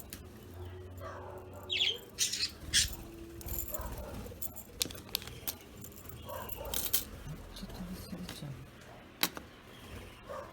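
Small metal chain toy jingling and clinking in irregular bursts as budgerigars play with it, with a brief bird chirp about two seconds in.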